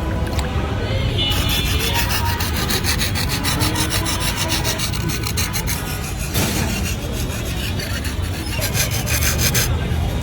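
Rapid back-and-forth rasping strokes of a part of a motorcycle mirror being smoothed by hand. They start about a second in and stop near the end.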